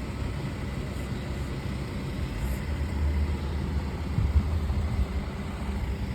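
Steady low rumble of a vehicle's engine and road noise, heard from on board a moving vehicle, with a brief knock about four seconds in.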